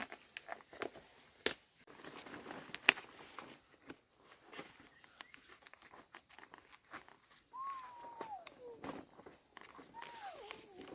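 Insects drone steadily and high-pitched, under scattered clicks, knocks and rustling from handling things close by, with two sharp knocks in the first few seconds. About eight seconds in there is a drawn-out call falling in pitch, and a shorter falling one near the end.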